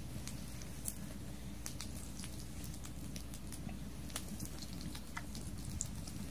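Wood fire under a stone grilling plate of pork belly: scattered sharp pops and crackles over a low, steady rumble.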